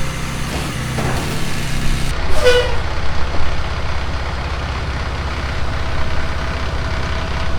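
International A26 inline-six diesel in a dump truck running steadily. Its hum changes about two seconds in, and a short falling squeal follows soon after.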